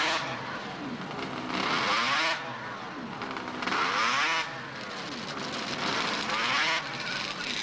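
Two-stroke snowmobile engines revving up and easing off over and over, with a louder burst about every two seconds.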